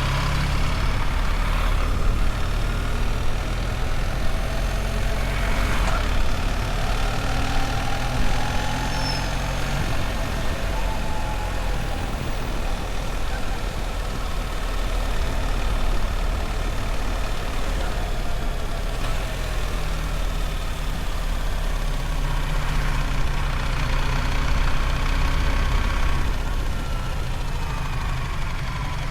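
BMW R1300 GS motorcycle's boxer-twin engine running steadily at low revs while riding, with some faint rising and falling tones over it.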